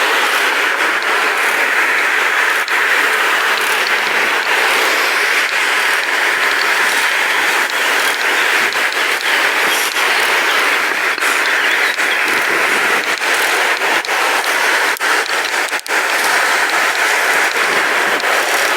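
Steady rushing noise of riding a pedal bike, wind on the microphone with tyre noise, broken by frequent short knocks and clicks from bumps in the pavement.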